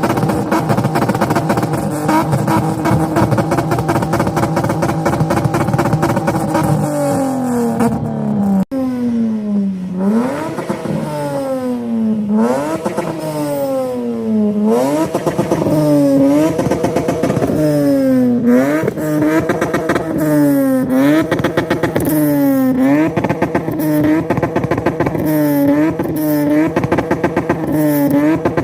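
Car engine held at high, steady revs for several seconds, then dropping. It is then revved up and down over and over, the revs rising and falling about every two seconds at first and about once a second near the end.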